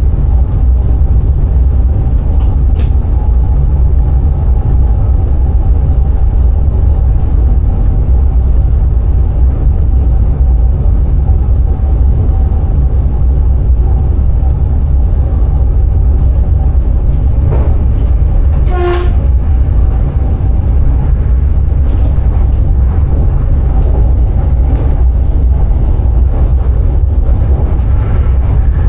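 Steady low rumble of a Dutch Sprinter electric train running along the line, heard from inside the driver's cab, with a faint steady whine. About two-thirds of the way through comes one brief pitched sound.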